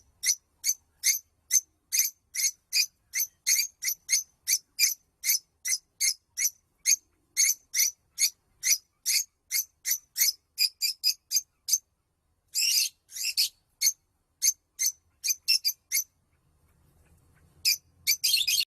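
A songbird repeating short, sharp, high chirping notes, two or three a second. About two-thirds of the way through, a brief pause gives way to a denser, buzzy run of notes, and the single notes resume before stopping.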